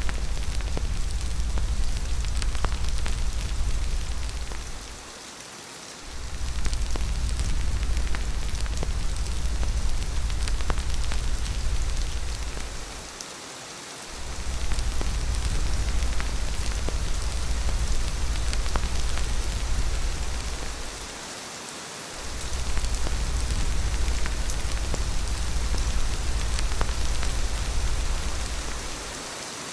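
Steady rain falling in an even hiss with fine scattered drop ticks, over a deep low wind rumble that fades out for about a second roughly every eight seconds.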